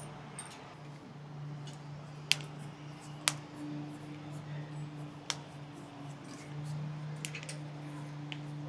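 Sharp clicks and clinks of tools and parts being handled while assembling an elliptical trainer, the loudest about two and three seconds in and another about five seconds in, over a steady low hum.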